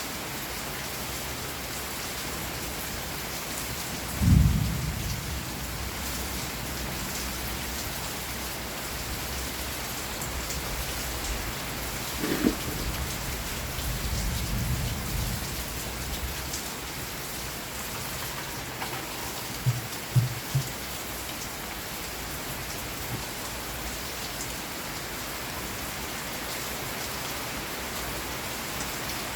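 Steady heavy rain, with a loud clap of thunder about four seconds in and lower rumbles of thunder later on. A few short low thumps come about two-thirds of the way through.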